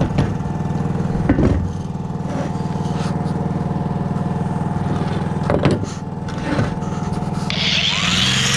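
An engine idling steadily, with a few short knocks or clicks over it. Music comes in near the end.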